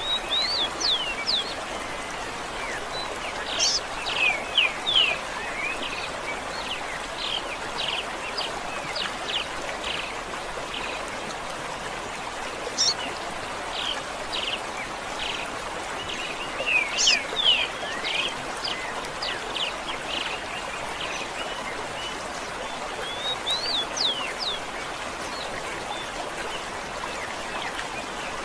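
Songbirds chirping in recurring clusters of quick, sharply sweeping high notes over a steady rush of running water.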